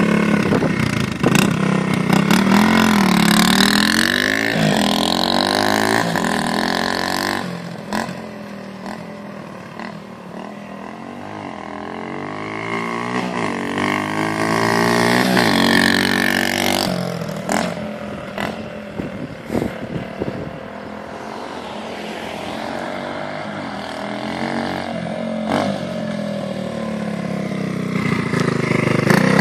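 1973 Honda SL70 mini-bike's small single-cylinder four-stroke engine running under way, its pitch rising and falling again and again as it is revved up and eased off. It fades somewhat for a few seconds about a third of the way in, then comes back up.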